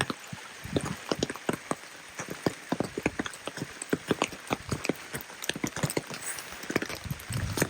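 Steady rain hiss with many irregular, sharp taps of close raindrops striking a hard surface, several a second, and a few soft low thuds near the start and near the end.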